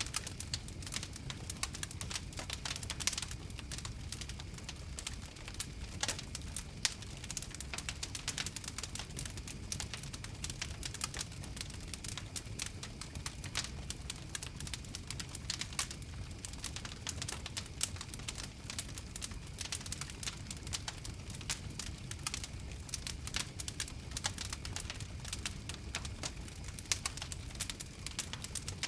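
Wood fire crackling steadily: a dense run of quick sharp pops and snaps over the low rumble of the flames.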